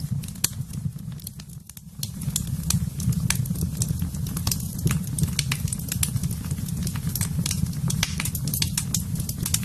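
Wood fire burning in a fireplace: a steady low rumble of flames with frequent sharp crackles and pops. The rumble drops away briefly about a second in, then comes back.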